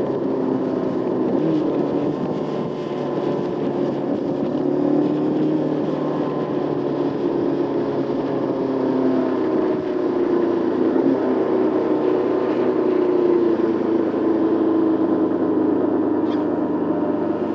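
Motorcycle engine running under way, its pitch rising and falling as the revs change.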